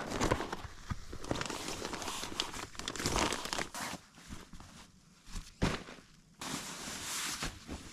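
Crinkling and rustling of camping gear and tent fabric being handled, in irregular bursts with scattered clicks. It eases off for a couple of seconds past the middle, apart from one sharp click, then starts up again.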